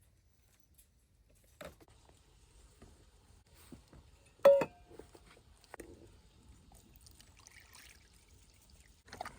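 Quiet handling sounds: a few light knocks, and one loud clink about four and a half seconds in that rings on briefly.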